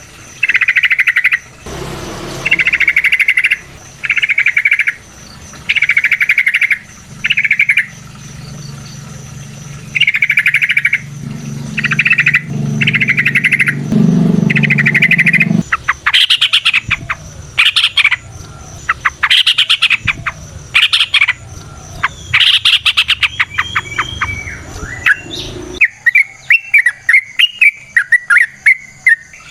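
Yellow-vented bulbul (trucukan) singing: a long series of short, repeated call phrases, turning to quicker, sharper notes about halfway and a fast warbling run near the end. A low hum runs underneath through the first half.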